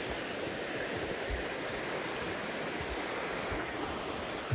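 A small river flowing steadily, a constant rush of water.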